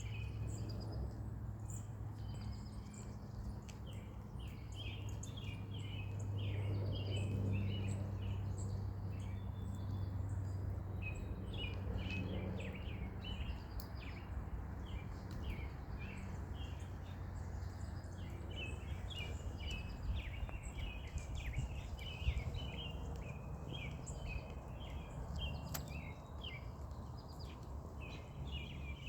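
Birds chirping in rapid, repeated short calls throughout, over a steady low rumble.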